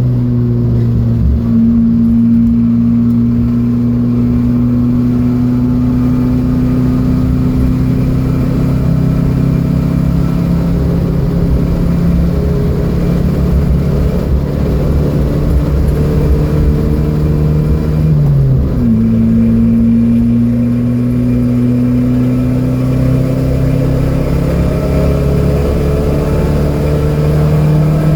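Datsun B210's engine pulling hard under load, its pitch climbing slowly. About two-thirds of the way through, the pitch drops sharply at an upshift, then climbs again.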